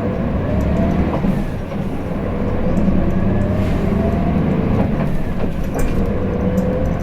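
Hino Blue Ribbon City city bus's diesel engine and drivetrain, heard from inside the cabin, pulling away from a stop. A low rumble runs under a whine that rises in pitch three times as the bus works up through its gears.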